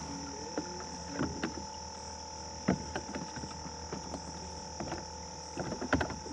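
Scattered knocks and taps of paddle and fishing gear against a plastic kayak hull, the loudest about a third of the way in and again near the end, over a steady high-pitched background hum.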